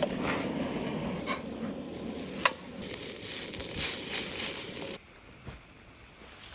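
Food sizzling and frying in a pan, with a few sharp pops, cutting off abruptly about two-thirds of the way through to a much quieter background.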